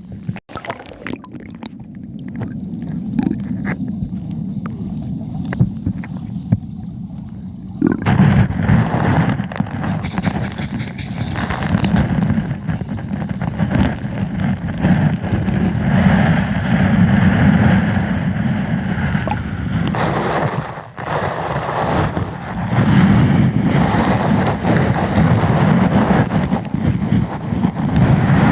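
Rushing, churning water, heavily muffled for the first eight seconds with small clicks, then suddenly much fuller from about eight seconds in.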